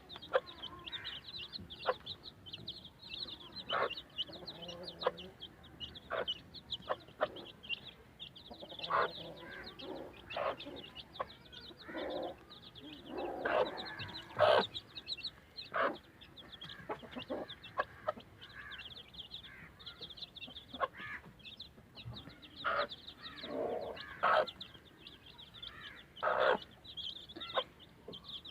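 Chicks peeping continuously in rapid high cheeps, with a hen clucking now and then among them.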